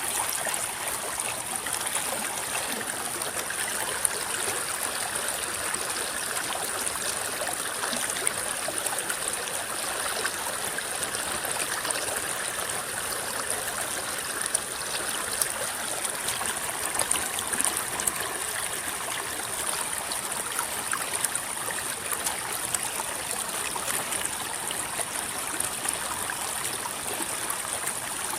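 River water flowing and rippling over shallows, a steady babble with small irregular splashes.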